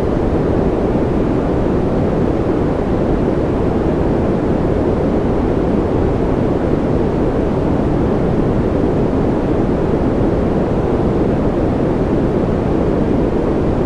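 White noise track for infant sleep: a steady, even rushing noise, deep in tone with little high hiss, holding one level without change.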